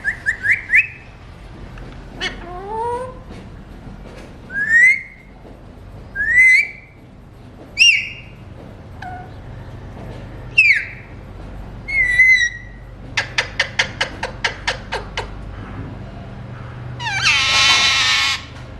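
Pet parakeet calling: a string of short rising whistles, then a quick run of about nine clicks, then a long harsh screech near the end.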